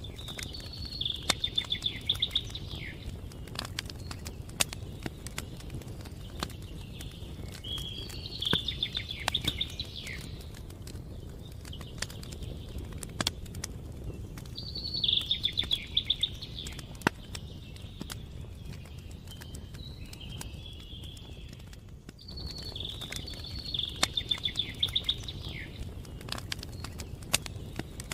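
Campfire crackling with scattered sharp pops over a steady low hiss, while a songbird repeats a short, rapid trilled phrase about every seven seconds, four times.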